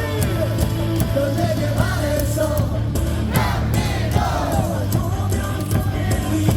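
Stadium cheer music with a steady beat, with a crowd of fans singing and shouting along in a baseball cheering chant.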